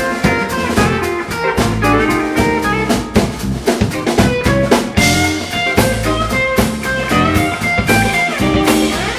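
Live blues band playing an instrumental passage: guitar lead notes over drum kit and bass. A cymbal crash comes about five seconds in.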